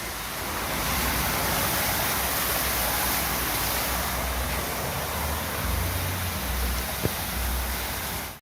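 Floodwater rushing, a steady broad rush with low rumbles now and then in the second half. It cuts off suddenly at the end.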